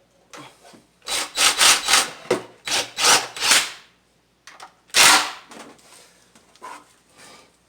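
Impact gun run in a quick series of short trigger bursts, then one more burst about five seconds in, snugging intake manifold bolts down in a crisscross pattern without fully tightening them.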